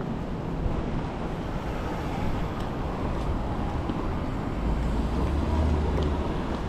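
Tokyo street ambience: steady traffic noise, with a deep rumble from a passing vehicle lasting about a second and a half near the end.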